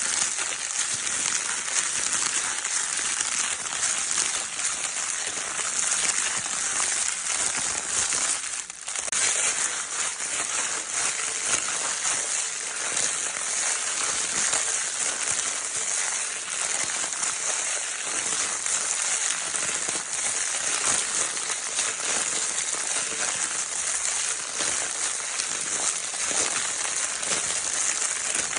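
Baby crinkle paper toy being crinkled over and over, a dense, steady crackling rustle with one brief lull about a third of the way through.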